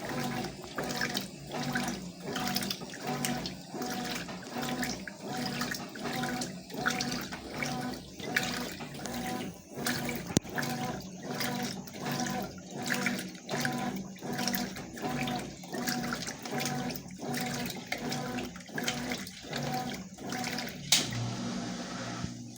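Consul CWS washing machine agitating a load in rinse water: rhythmic sloshing swishes about once a second over a low motor hum. The agitation stops shortly before the end, leaving a steady hum.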